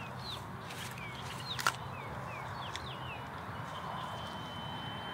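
Small birds chirping in short, falling notes repeated every fraction of a second, with one sharp knock about a second and a half in.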